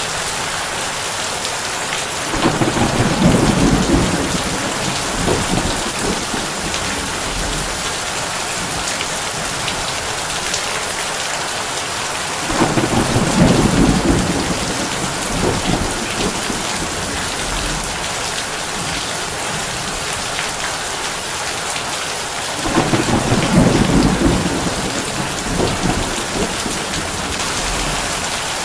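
Heavy rain drumming on a tin roof, a steady dense hiss, with three low rolls of thunder about ten seconds apart, each lasting around three seconds.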